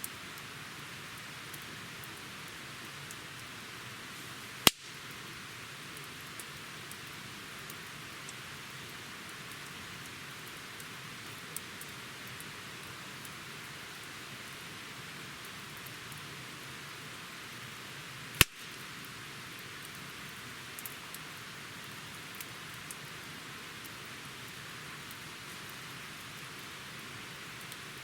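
Wood campfire burning with a steady hiss and light crackle, and two sharp, loud pops from the burning wood, about five seconds in and again about two-thirds of the way through.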